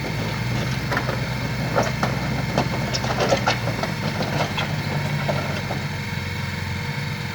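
An engine running steadily, its pitch dropping slightly about four seconds in, with a string of sharp knocks in the middle.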